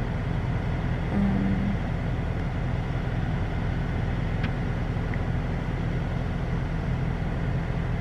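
Steady low hum of a car running, heard from inside the cabin, with a short low tone about a second in and a faint click near the middle.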